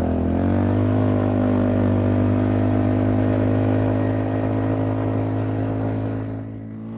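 ATV engine running under throttle: it revs up about half a second in, holds a steady pitch, then dies down near the end.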